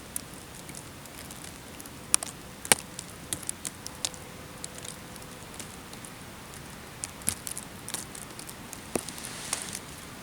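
Scattered sharp clicks and crackles at irregular intervals over a steady hiss.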